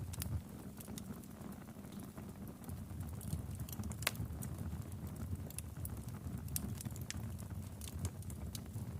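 Wood fire burning in a fireplace: a steady low rumble of flame with irregular crackles and small pops, one sharper pop about four seconds in.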